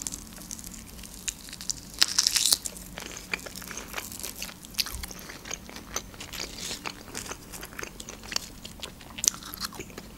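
Close-miked eating of grilled shashlik meat: biting and chewing, with many short mouth clicks throughout and a louder cluster about two seconds in.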